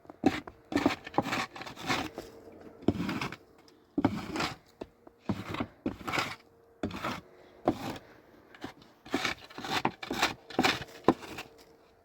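A large plastic sheet being handled and unfolded, rustling and crinkling in irregular strokes, one or two a second.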